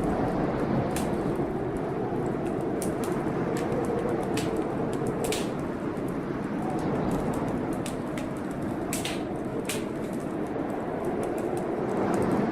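Wood fire crackling, with sharp irregular pops and snaps, over a steady rushing storm noise.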